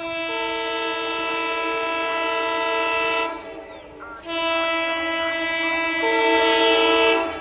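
Air horn of an EMD WDP4-family diesel locomotive sounding two long blasts about a second apart, each a steady chord of several notes.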